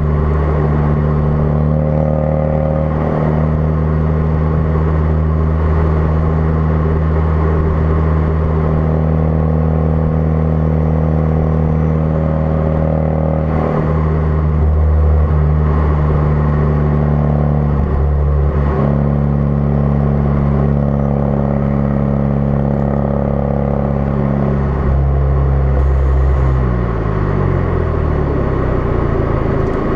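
2016 Ford Focus RS's 2.3-litre turbocharged four-cylinder running through a custom-fabricated exhaust at a steady note, with small shifts along the way. Near the end the exhaust note falls in pitch as the revs drop.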